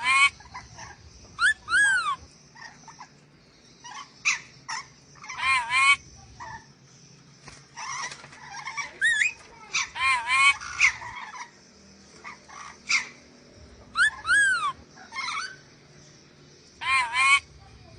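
Sulawesi nuri dora parrot giving harsh, screeching calls in short bursts every second or two. Each call is a brief arching squawk that rises and then falls in pitch.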